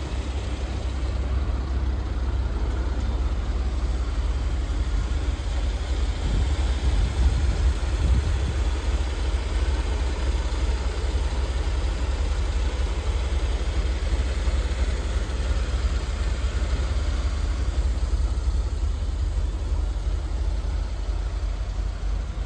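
1985 Rolls-Royce Silver Spirit's 6.75-litre V8 idling steadily. The seller describes the car as currently running rough and in need of a service.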